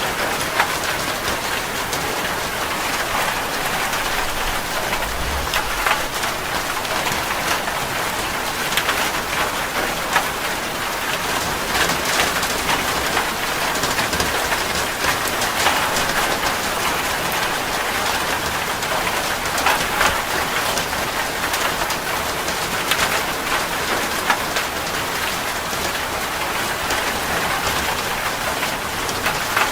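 Heavy rain falling on a metal roof: a steady hiss full of sharp little drop hits.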